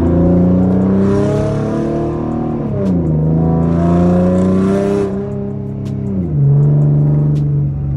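V6 Ford Mustang with no mufflers or resonators and a catted X-pipe, its exhaust note climbing under acceleration. The pitch drops with a gear change about three seconds in, climbs again, and drops once more a little past six seconds before holding steady.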